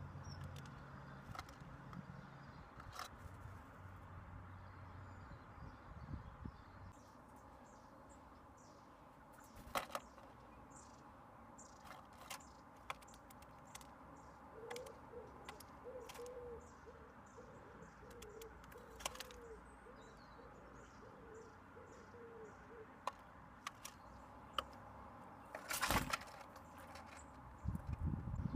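Birds at a garden bird table close to the microphone: scattered sharp taps and knocks on the table, with a louder burst near the end and faint high chirping in the first half. A run of short, low, wavering calls sounds in the middle.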